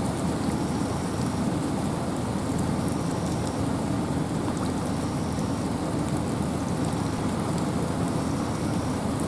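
Steady wind and rain in a forest: an even, dense rushing that sits mostly in the low range and does not change, with scattered faint ticks of drops.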